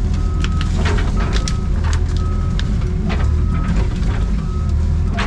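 Excavator engine running steadily under load while the machine pushes through brush and small trees, with irregular cracking and snapping of branches and a short high beep repeating about once a second.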